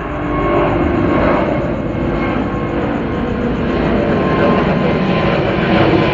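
Airbus A350's Rolls-Royce Trent XWB turbofan engines running as the airliner departs: a loud, steady jet noise that grows slightly louder.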